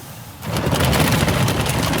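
Automatic car wash equipment starts up suddenly about half a second in: a loud, steady rushing noise with a low rumble.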